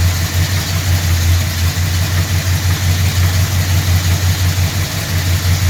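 1974 Suburban's engine idling steadily with an even, pulsing beat, running through new headers and a tacked-together exhaust that still has a few small leaks at the pipe joints. It is warming up from a cold start with no choke hooked up.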